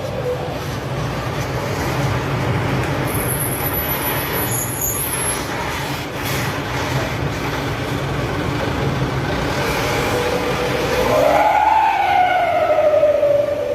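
A vehicle running steadily with a low hum. Near the end a siren-like wail rises and falls once.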